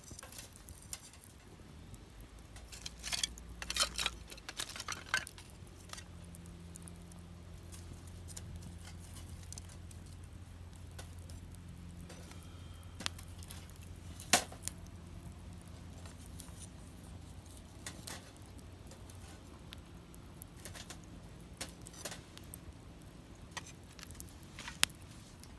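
Wood fire crackling in a fire pit: scattered sharp pops and snaps, a busy spell of them a few seconds in and one loud pop about halfway. A faint low steady hum runs underneath.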